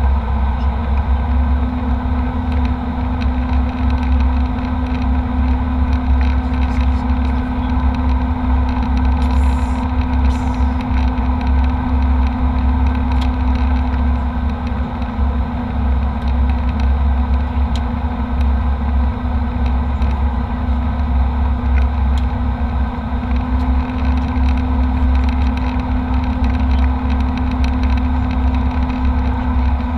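Steady cabin noise of a twin-engine jet airliner in flight: a constant deep rumble with an airflow hiss, joined about a second in by a steady hum.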